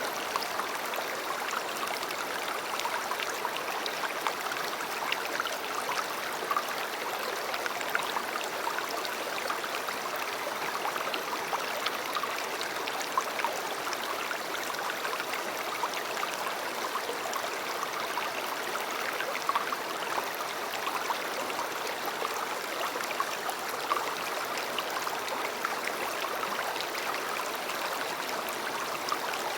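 A river or stream flowing steadily, an even rush of water with small splashes and trickles.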